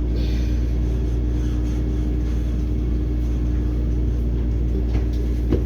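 Steady low rumble and hum of a moving train, with a short knock near the end.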